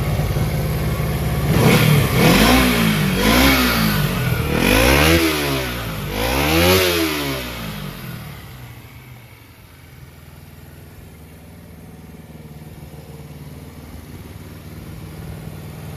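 Kawasaki Z250FT motorcycle engine with an aftermarket muffler, idling, then revved about four times in quick succession and settling back to a quieter idle.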